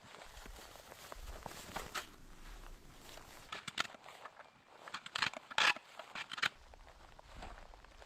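Footsteps crunching in snow, irregular steps, with a cluster of louder ones a little past the middle.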